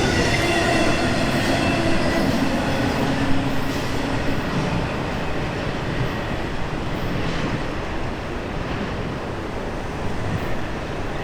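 Intermodal container cars of a freight train rolling past: a steady rumble of steel wheels on rail, with faint squealing tones that die away about four seconds in. The sound fades slowly as the train draws away.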